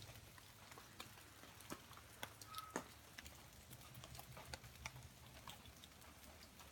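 Faint, irregular drops of rainwater dripping and pattering after a hard rain.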